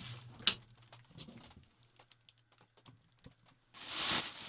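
Scattered light clicks and taps, with one sharper click about half a second in, then a short rustle near the end.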